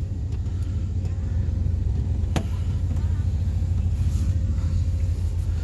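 1998 Chevrolet Silverado's 350 Vortec V8 idling steadily with an even low rumble, warming up after a cold start at −16 °C. A single sharp click about two and a half seconds in.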